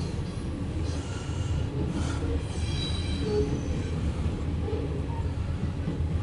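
Loaded coal cars of a CSX freight train rolling past with a steady low rumble of wheels on rail. A brief high-pitched wheel squeal comes in about two and a half seconds in and fades about a second later.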